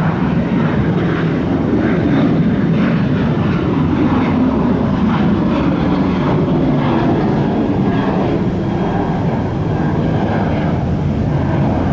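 Southwest Airlines Boeing 737's jet engines at high power as it departs: a loud, steady rumble.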